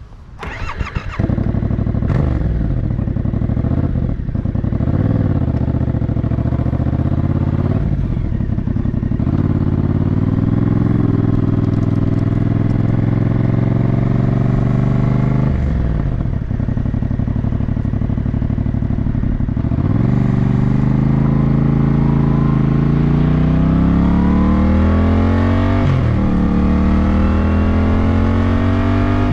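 Yamaha motorcycle engine under way, its pitch climbing as it accelerates and dropping sharply at each upshift, about six gear changes in all.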